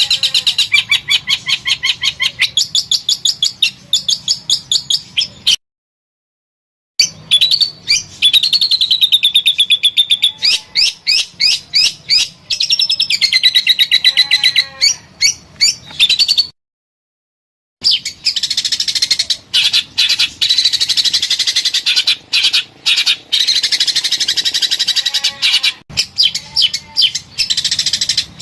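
Songbird singing loud, fast runs of rapidly repeated notes and trills. The song cuts to dead silence twice, about 6 seconds in and about 17 seconds in, where the recording is spliced.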